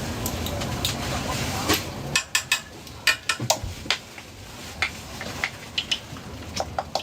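Scattered sharp clicks, taps and knocks of metal utensils against pans and dishes at a street-food stall. At first they sit over a steady hiss, which drops away about two seconds in.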